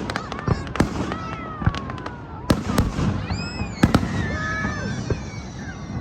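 Fireworks display: a string of sharp bangs from bursting shells, roughly one or two a second, with the loudest near the middle.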